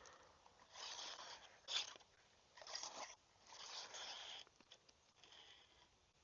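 Faint rustling and crunching of dry leaves and brush, in four short bursts with one sharper crack just before two seconds in.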